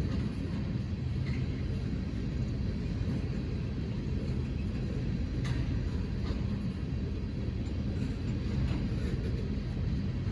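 Train rolling past with a steady low rumble and a few faint clicks.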